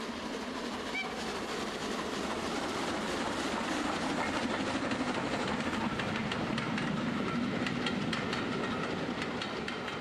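A train running with a clickety-clack of wheels over rail joints. It swells over the first few seconds and stays steady.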